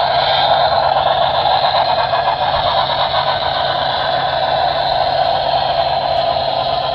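Model train running on the layout: a steady mechanical running noise.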